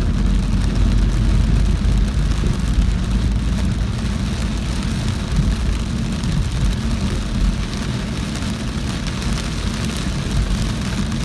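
Car driving through heavy rain: a steady low rumble of engine and road noise with rain pattering on the car.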